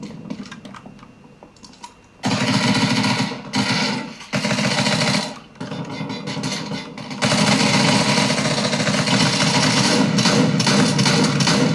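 Video game sound effects played through the Armaggeddon X-Bar 2 gaming soundbar: after two quiet seconds, long bursts of rapid, dense rattling that break off briefly a few times, then run on.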